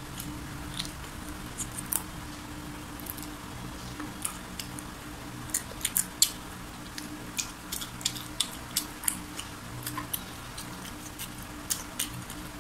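Close-up chewing of crispy fried chicken: many short, sharp crunches and crackles of the breaded crust, irregularly spaced, over a faint steady low hum.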